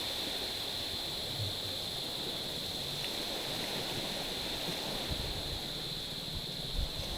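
Small waves lapping gently against a stony, pebbly shore: a steady wash of water, with a constant high-pitched hiss above it.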